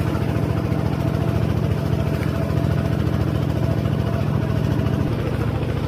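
An engine running steadily, with a fast even low pulsing.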